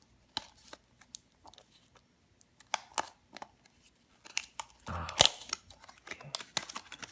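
A toy car's box being opened by hand: scattered clicks, taps and short scrapes of plastic and cardboard, with a louder burst of rustling and snapping about five seconds in.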